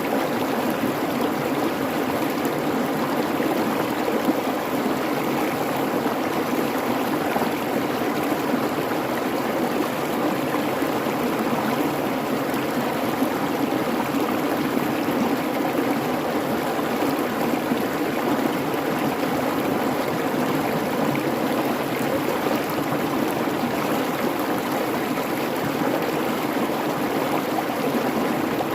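Babbling brook: a creek's water rushing and burbling over rocks in a steady, even wash.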